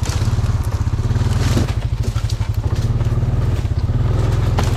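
Honda Rancher ATV's single-cylinder engine running steadily, with an even pulsing note, as it pushes through brush. Scattered sharp clicks and cracks of twigs and branches snapping against the machine.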